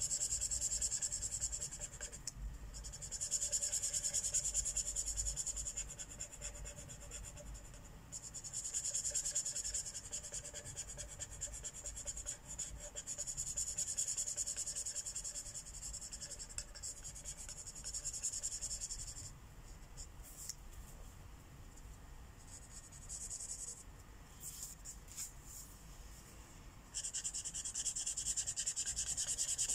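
Felt-tip marker scratching across paper in spells of back-and-forth colouring strokes, each lasting a few seconds, with a quieter pause in the middle broken by a few light taps before the colouring picks up again near the end.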